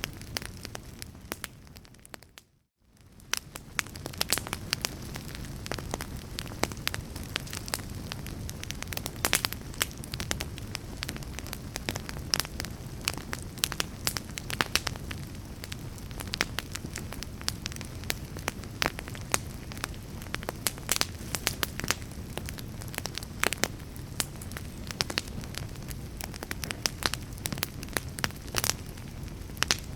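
Wood fire crackling: irregular sharp pops and snaps over a steady low rumble and hiss. About two and a half seconds in, the sound fades almost to silence and then swells back.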